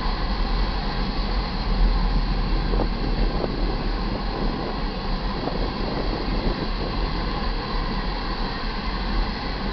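Iron ore hopper cars rolling past on the main track: a steady rumble of steel wheels on rail, with a few faint clicks or squeals from the wheels a few seconds in.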